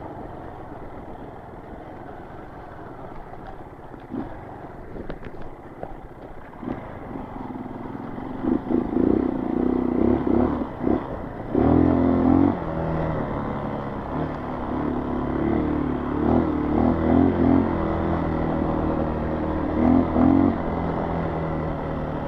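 Honda CRF230 dirt bike's single-cylinder four-stroke engine running at low revs, with a few clattering knocks, then revving in repeated bursts from about eight seconds in.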